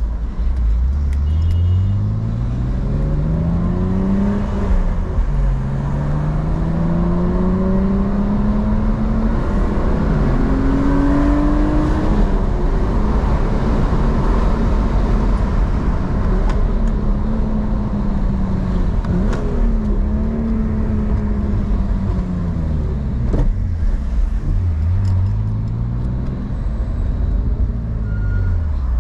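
BMW E46's engine pulling through the gears. Its pitch climbs, drops sharply at upshifts about four and nine seconds in, eases off from around twelve seconds, and climbs again near the end before another shift.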